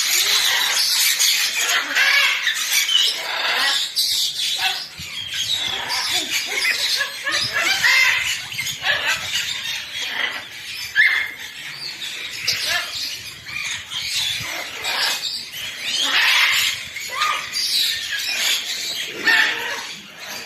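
A group of birds chattering together: a dense, continuous mix of short chirps and squawks that overlap without a break.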